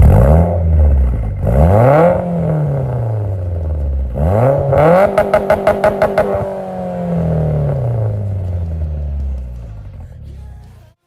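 A vehicle engine revving hard twice, its pitch rising and then sliding down. At the peak of the second rev, about five seconds in, it stutters in quick pulses, then winds down slowly and fades.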